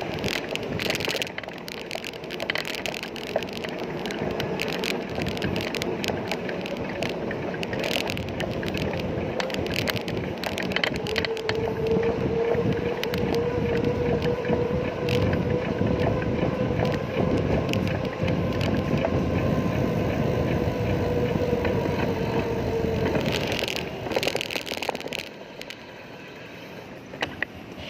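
Road, wind and rattle noise from riding a bicycle, with frequent clicks. A steady hum joins in about a third of the way through and stops after about twelve seconds. The noise drops off near the end.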